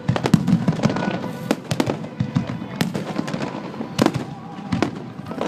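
Fireworks finale barrage: a rapid, irregular string of bangs and crackles from many shells bursting in quick succession, with a low rumble underneath and an especially sharp bang about four seconds in.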